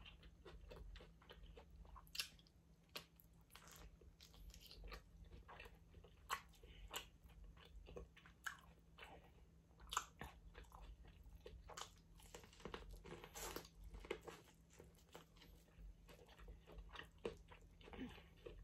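A person chewing food close to the microphone, with wet mouth smacking and short irregular crunches and clicks.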